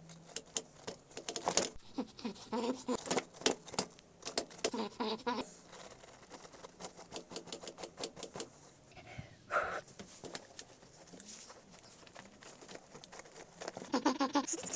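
Rubber inner tube stuck to the inside of a tyre being pulled away by force, peeling off with a rapid, irregular crackle and occasional short squeaks. The tube has stuck because no talc was put around the patch.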